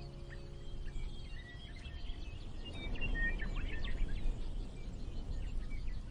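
Birds chirping in short, scattered calls over a soft, steady background of ambient noise, after the last held notes of calm music die away in the first second.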